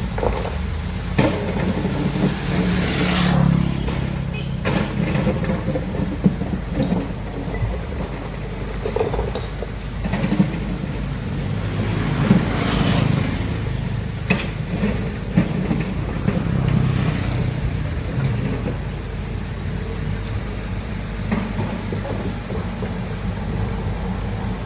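Heavy excavator's diesel engine running under load, its rumble rising in several surges, with occasional short knocks from the working machinery.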